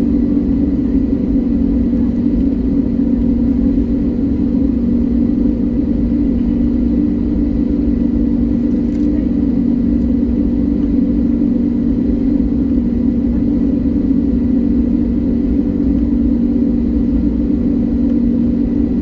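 Steady drone inside an airliner cabin on the ground before takeoff: the engines running at low power, an even hum with a few fixed tones over a low rumble, unchanging throughout.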